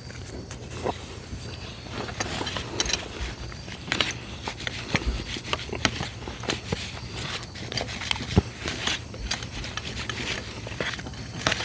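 Someone eating close to the microphone: chewing, with irregular small clicks and scrapes of food and utensils.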